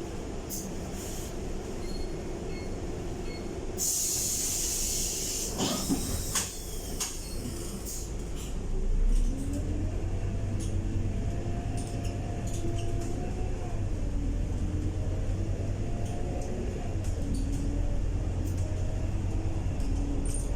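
Scania K230UB bus heard from inside: a burst of compressed-air hiss about four seconds in and a few knocks, then the engine pulling away. Its note rises and drops in steps as the ZF 6HP504C automatic gearbox changes up.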